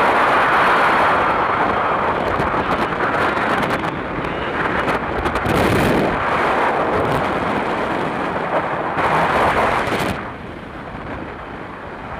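Wind rushing over the microphone together with the road noise of a moving vehicle: a steady, loud roar that drops noticeably quieter about ten seconds in.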